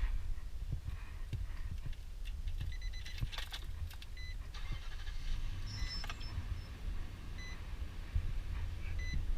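Nissan Titan's V8 engine running with a low rumble while the cab's warning chime beeps about seven times at uneven intervals, with some clicks and rattling in between.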